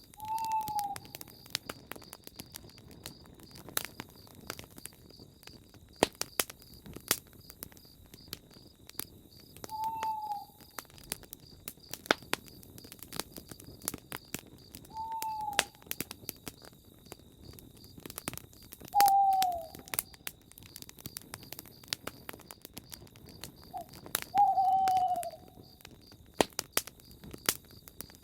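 Campfire crackling and popping, with an owl giving five short, falling hoots a few seconds apart and insects, likely crickets, trilling steadily in a high pitch.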